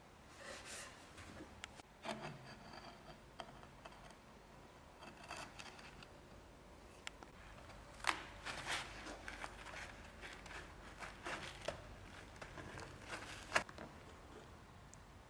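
Hands-on workshop handling: scattered light clicks, taps and short scrapes of tools or small metal parts being handled, with sharp clicks about 8 seconds in and, loudest, near the end.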